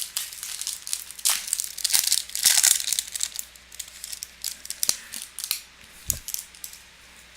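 Foil wrapper of a Topps Chrome baseball card pack crinkling and tearing as it is pulled open, busiest about two seconds in and tapering off. A soft low bump comes near the end.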